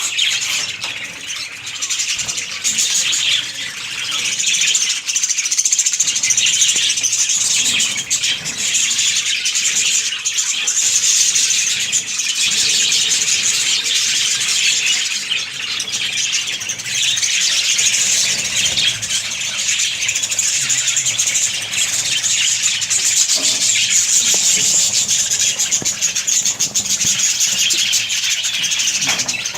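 A colony of budgerigars chattering and chirping together: a dense, continuous twittering of many birds at once.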